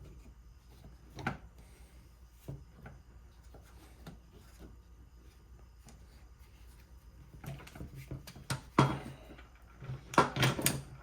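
Parts of a hammer drill's housing and internals being handled and fitted together: a single knock about a second in, scattered light clicks, then a cluster of louder clattering knocks near the end.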